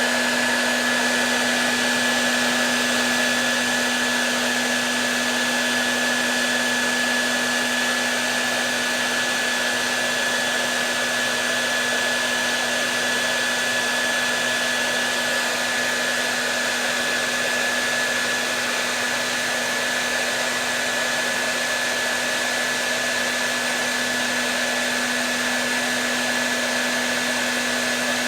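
Hair dryer running continuously: a steady rush of air with a constant motor hum and a thin high whine, unchanging in pitch and level.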